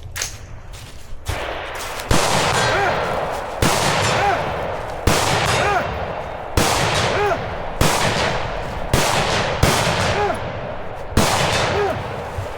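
About nine gunshots at a steady pace, roughly one every second or so, each followed by the ringing clang of a struck steel target.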